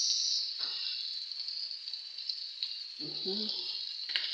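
Chicken feet sizzling in soy sauce in a wok: a steady frying hiss that slowly fades, with a couple of faint clicks.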